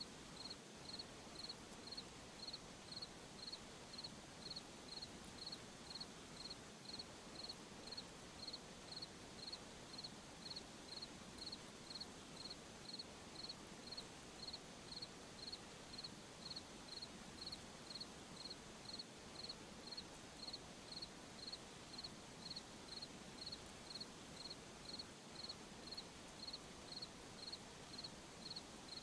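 A cricket chirping at a steady, even rhythm, a little under two short high chirps a second, over a faint even hiss of night ambience.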